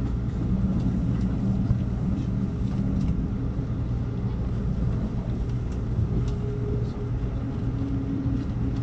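Amtrak Cascades passenger train running at speed: a steady low rumble and hum, with faint clicks now and then.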